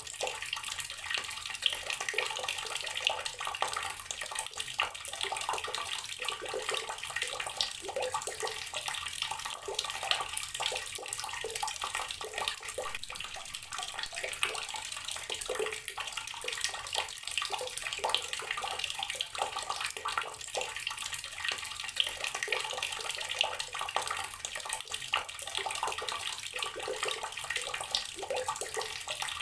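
Water tap running steadily, the stream splashing continuously into a basin or tub.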